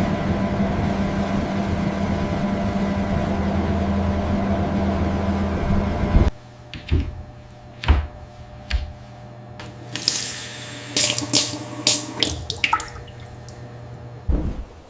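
Steady rush like running water, with a low hum under it, cutting off abruptly about six seconds in; then scattered light clicks and knocks.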